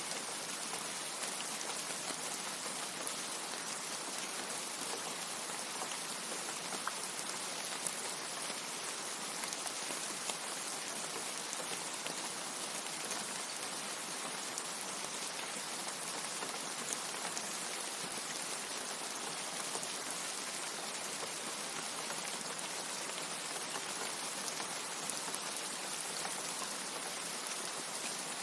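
Steady rain with many small, sharp drop ticks. No thunder is heard.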